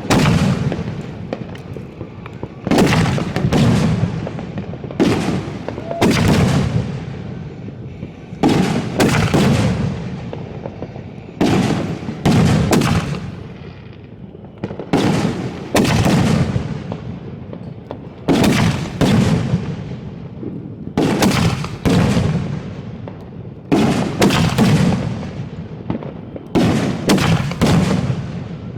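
Consumer aerial fireworks in a finale barrage: a continuous run of loud shell launches and bursts, sharp bangs coming every second or two, often in quick clusters, each followed by a fading rumble and crackle.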